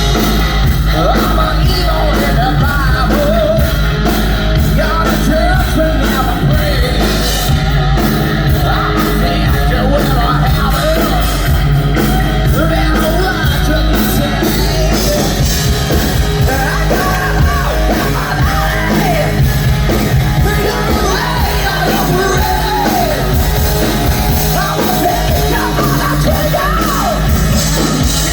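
Hard rock band playing live and loud, with drums, electric guitar and yelled singing.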